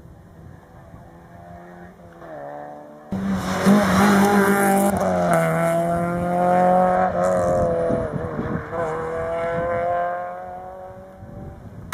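Rally car engine running hard at high revs as the car drives the stage. It is faint at first and becomes abruptly loud about three seconds in, then holds with a brief dip in revs about two-thirds of the way through before fading as the car moves away.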